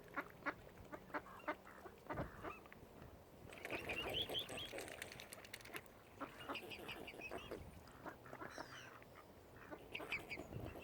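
Waterfowl calling: many short calls, with a louder, denser burst of calling about four seconds in.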